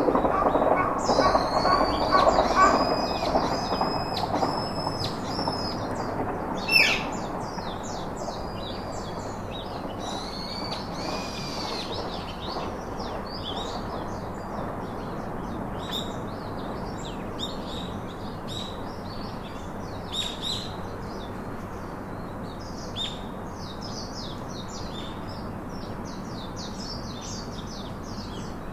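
Birds chirping repeatedly in short, high calls over a steady hiss like rain. A louder low rumble fades out over the first few seconds, and one sharp, louder call comes about seven seconds in.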